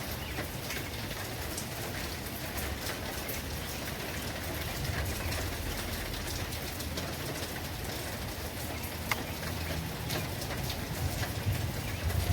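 Steady rain falling on a surface, with many individual drops ticking through the hiss. A low rumble underneath swells about five seconds in and again near the end.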